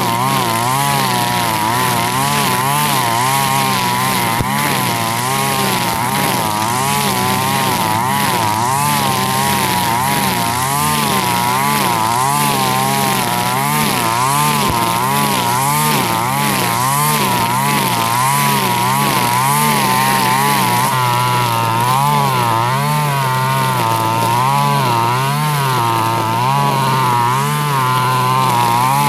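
Husqvarna 542RBS two-stroke backpack brush cutter running at cutting speed with a nylon trimmer line, its engine pitch rising and falling about once a second as it works through grass.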